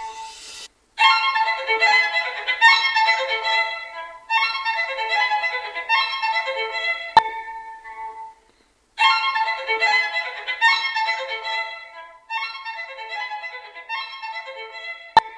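Violin music in quick running phrases, breaking off briefly near the start and again just past halfway, with a sharp click a little before the second break and another near the end.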